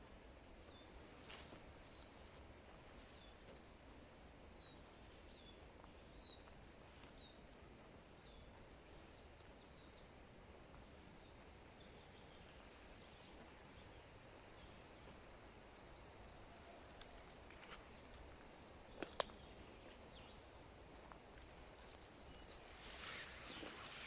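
Faint forest ambience with short, high bird chirps repeating through the first ten seconds or so. A few sharp clicks come a little after halfway, and a brief rustle near the end.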